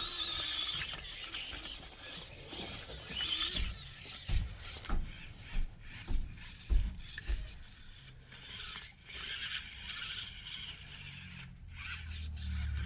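Axial SCX24 mini RC crawler's small electric motor and plastic gears whirring and chattering as it crawls the course, the whirr rising and falling with the throttle. A few short dull thumps come in the middle.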